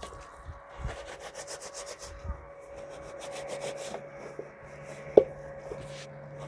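Quick rubbing or scraping strokes on a hard, wooden surface, with a faint steady hum underneath and a single sharp knock about five seconds in.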